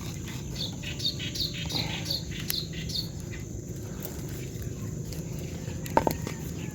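A bird calling a quick run of about eight short chirps, each falling in pitch, in the first three seconds, over steady low background noise. One sharp click about six seconds in.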